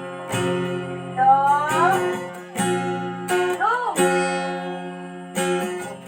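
Acoustic guitar strumming slow chords, struck roughly every second and a half and left to ring, with a couple of short wordless sung glides over them.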